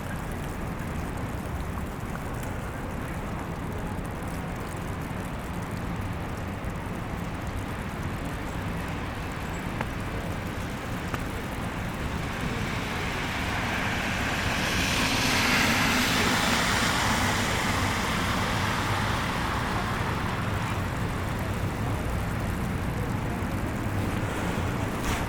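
Steady low rumble of city street traffic, with one vehicle passing about halfway through, its hiss swelling and then fading away.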